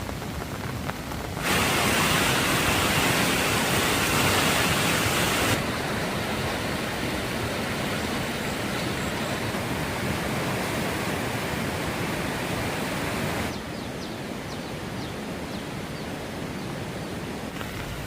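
Steady rain falling, a dense hiss that changes level abruptly a few times. It is loudest and brightest from about a second and a half in to about five and a half seconds in, and it is quieter over the last few seconds.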